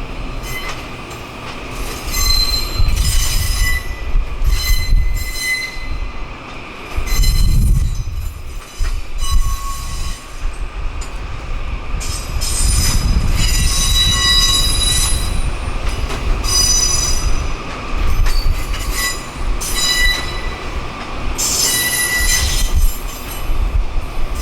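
Train wheels squealing against the rails in repeated high-pitched bursts, over the low rumble of the moving train.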